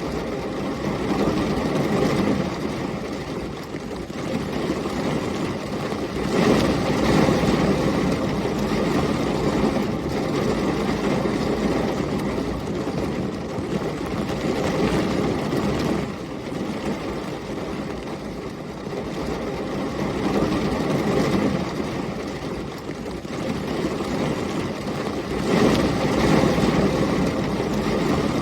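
Heavy rain with storm wind, a steady dense hiss and rumble that swells louder in two long surges, about six seconds in and again near the end.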